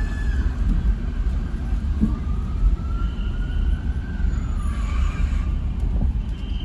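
Vehicle brakes squealing: long, high-pitched squeaks that rise and fall slowly in pitch, one lasting several seconds, over a steady low rumble.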